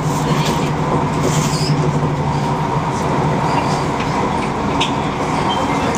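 Steady running noise inside a moving passenger train: a continuous hum and rumble of the train under way, with a few faint clicks.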